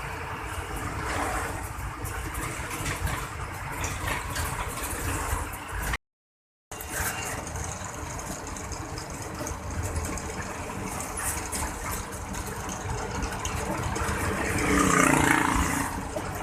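Lorry engine running and road noise heard inside the truck's cab. The sound cuts out completely for under a second about six seconds in, and a louder pitched sound swells up near the end.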